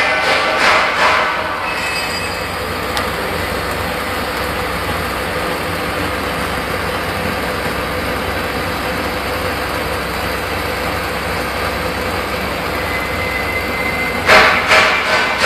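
Steady, even machine noise from automatic welding equipment, with a louder burst of clatter near the end.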